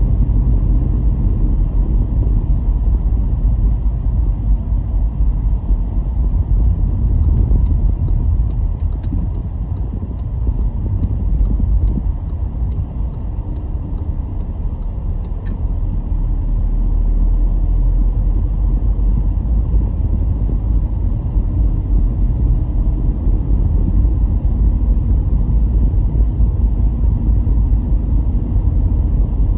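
A car driving on the road: a steady low rumble of engine and tyre noise, which eases off a little about halfway through and then builds again.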